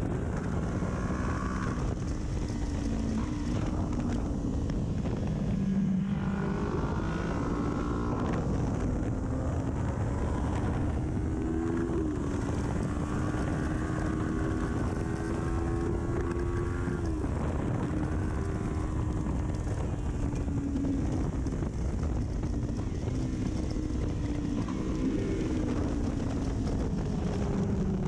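Kawasaki Ninja 400 parallel-twin with an aftermarket full exhaust, heard onboard at track speed under heavy wind noise on the microphone. The engine pitch climbs and falls again and again as the bike accelerates and brakes through the gears, with one long pull in the middle that ends in a sharp drop.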